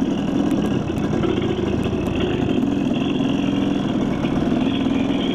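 Dirt bike engine running under way at fairly steady revs, its pitch shifting slightly and then holding steady about halfway through.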